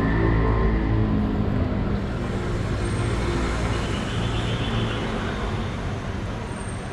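A motor vehicle's engine running close by amid steady street traffic noise, louder in the first couple of seconds and again a little past the middle.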